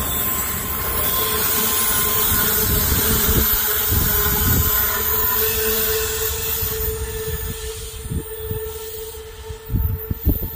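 Tail end of a double-stack intermodal freight train rolling away: steady rumble of wheels on rail with a steady wheel squeal, both fading from about six seconds in. A few sharp low thumps near the end.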